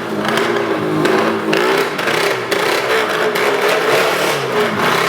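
Motorcycle engine running hard on a wall of death, its pitch rising and falling over and over as the throttle is worked.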